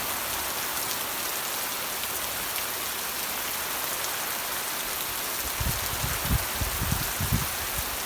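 Steady rain falling, an even hiss. From about five and a half seconds in, irregular low thuds join it.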